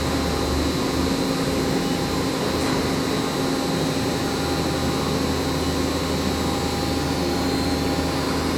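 Mori Seiki MV653-50 vertical machining center running under power, with a steady hum and a few fixed whining tones from its motors, pumps and fans while its Y axis is jogged. The axis travel itself is very quiet.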